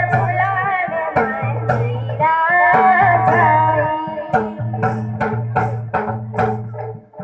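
A girl singing a folk song over dholak, khanjri and chimta. About four seconds in her voice stops and the percussion carries on alone with even strikes, about three a second.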